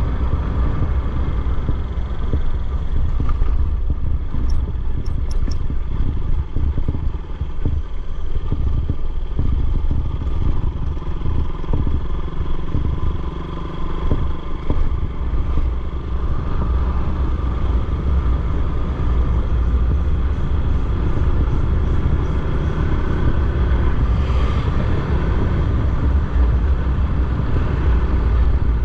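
Motorcycle running steadily on the move, under heavy wind rumble on the microphone.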